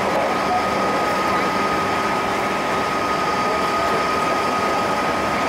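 JR Central 211 series 5000 electric train running at steady speed through a tunnel, heard from inside the car: a steady roar of wheels on rail, with one constant whining tone over it.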